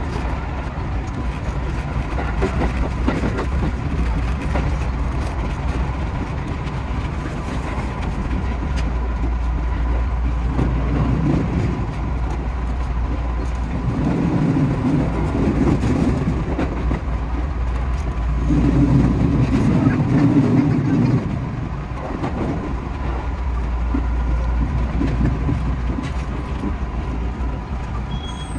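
Running noise heard inside the driver's cab of a 221 series electric train: a steady rumble of wheels on rail with a faint steady tone. The noise swells twice in the second half.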